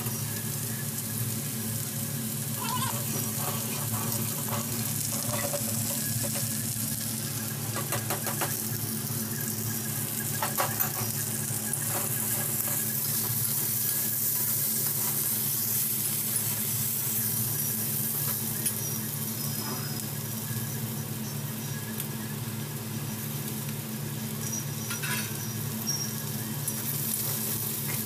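Potato sticks sizzling as they fry in a pan, with a metal spatula scraping and stirring them now and then, over a steady low hum.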